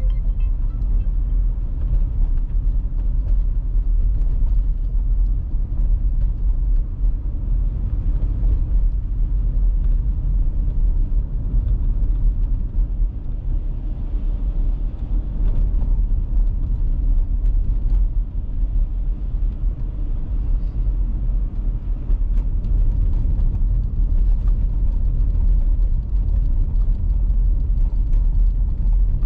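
Steady low rumble of a car driving on an icy road, tyre and engine noise without change.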